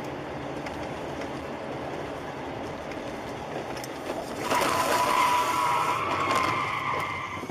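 Car road noise, with a loud high-pitched squeal rising over it about halfway through and lasting about three seconds.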